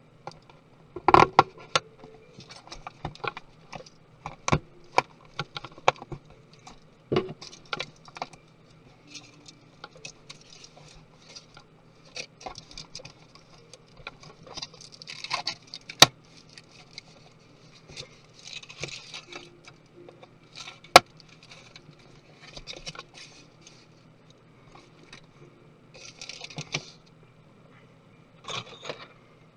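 Small laptop parts and tools being handled on a work surface during a MacBook Pro teardown: irregular sharp clicks and taps with short scraping rustles, the sharpest snaps about a second in, around the middle and about two-thirds through.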